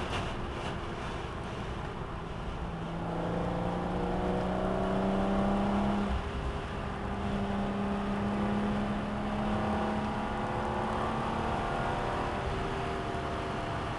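Alfa Romeo GTV6's 2.5-litre V6 heard from inside the cabin while driving, over steady road and wind noise. The engine note climbs from about three seconds in, drops briefly about six seconds in, climbs again, then eases off near the end.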